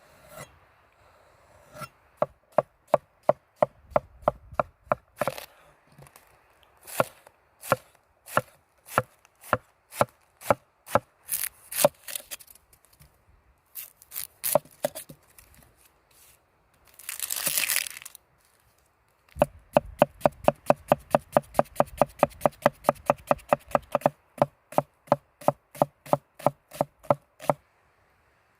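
Knife chopping on a wooden cutting board: runs of sharp, knocking cuts that quicken to about three a second in the second half. A brief rasping burst comes between the runs.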